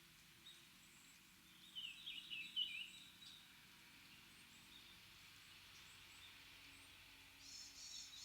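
Small birds calling in a quiet wood: a quick run of chirps about two seconds in, the loudest sound, and another run of higher chirps near the end, over a faint steady background hiss.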